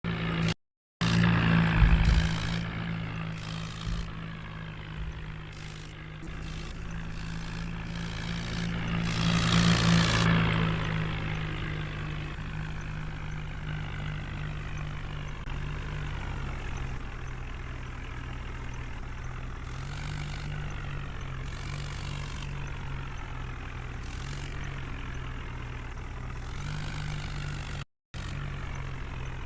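Tractor diesel engine running, revving up and getting louder about nine to ten seconds in, then settling back to a steady run.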